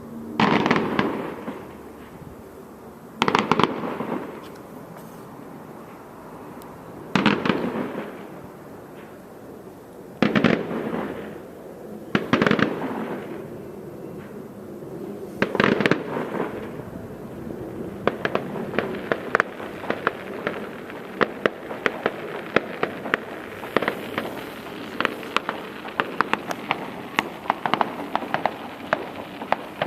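Fireworks going off: a loud bang every two to four seconds, each trailing off in a fading rumble, then, about two-thirds of the way through, a rapid run of sharp crackling pops.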